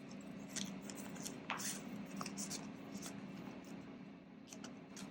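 Soft, scattered scratching and rustling of paper, typical of a pen writing on a paper cash envelope and bills being handled. A steady low hum runs underneath.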